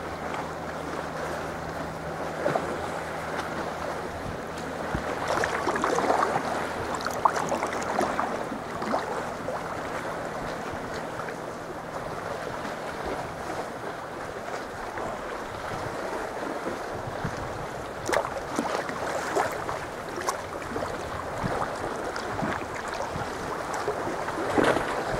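Sea water sloshing and splashing against a kayak, with occasional louder splashes, and wind buffeting the microphone.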